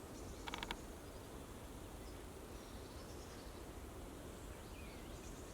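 Quiet outdoor ambience: a steady low rumble with faint, scattered bird chirps, and a quick run of ticks about half a second in.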